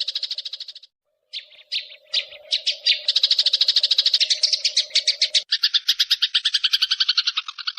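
Recorded songbird trill of rapid, evenly pulsed high chirps, about a dozen a second, from a bird-training 'mastering' track. The trill fades out about a second in and breaks briefly. It comes back in uneven bursts, then runs steadily, and near the middle switches to a lower, coarser pulsed trill.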